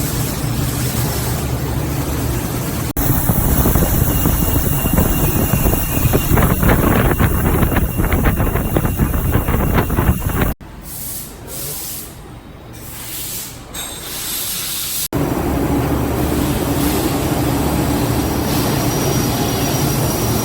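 CNC machines cutting metal exhaust manifolds: a steady mechanical hiss and hum, with a louder rattling stretch of rapid clicks. The sound changes abruptly three times, dropping quieter for a few seconds before the steady machine noise returns.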